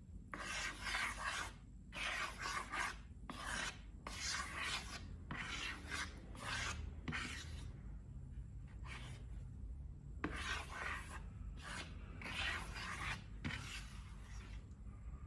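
Repeated dry rubbing and scraping strokes, irregular, about one or two a second, with a short pause partway through.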